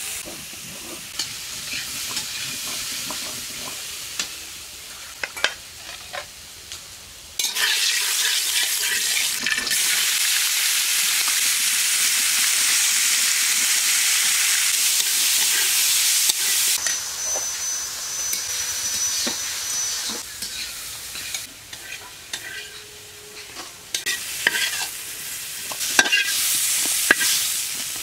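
Food frying in hot oil in a pan while it is stirred, with a steady sizzle and scattered clicks and scrapes of the utensil. About seven seconds in, the sizzle jumps much louder for about ten seconds, then settles back to a quieter sizzle with more clicks.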